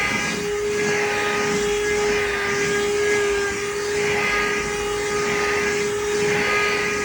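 Handheld vacuum cleaner running with a steady high whine and suction hiss, the hiss swelling and easing about every second as it is worked over a thin doormat. It is switched off at the very end, its motor winding down in pitch.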